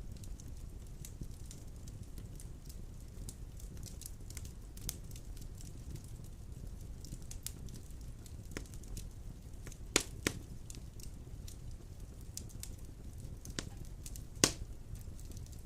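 Wood fire burning in a stone fireplace, with a steady low rumble and frequent crackles. Two loud pops come close together about ten seconds in, and another loud pop comes near the end.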